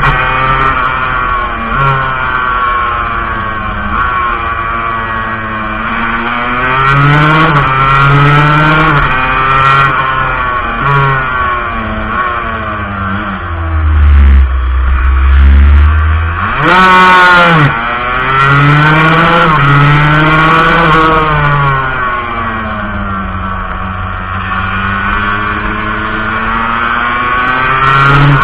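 Montesa Cappra 125's single-cylinder two-stroke engine heard from on board, revving up and down, its pitch climbing and then dropping again and again. About halfway through there is a loud low rumble, then a brief sharp rise and fall in pitch.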